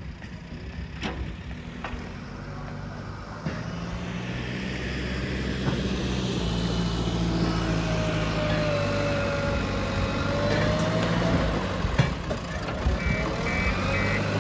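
JCB 3DX backhoe loader's diesel engine running, picking up noticeably about three and a half seconds in, with a wavering whine over it in the middle and a few sharp knocks. A rapid series of high beeps starts near the end.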